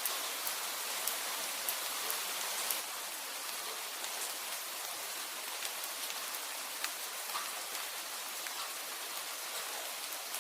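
Steady rain falling, with scattered sharp ticks of drops or crackles, most of them in the first three seconds.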